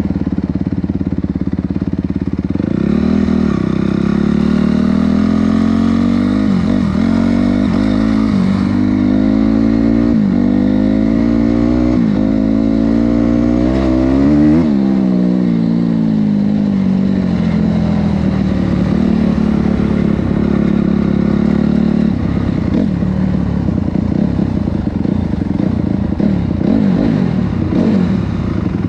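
Honda CRF250R's single-cylinder four-stroke engine running hard, its pitch climbing and falling again and again, with a few sharp blips and a steadier stretch of held revs about two-thirds of the way through.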